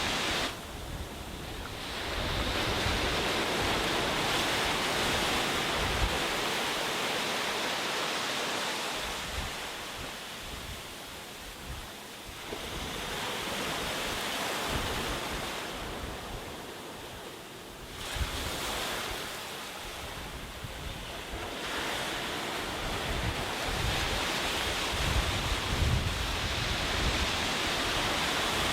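Sea waves breaking and washing up a beach, the surf swelling and fading every few seconds, with low wind rumble on the microphone.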